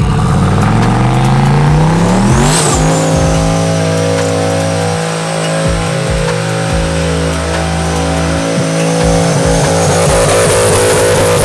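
Truck engine revving up hard over about two seconds and held at high revs for several seconds, tires squealing in a burnout.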